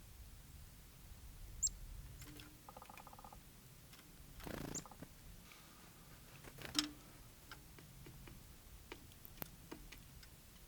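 Small birds calling faintly: a few short, high chirps, a brief nasal buzzy call about three seconds in, and scattered light clicks.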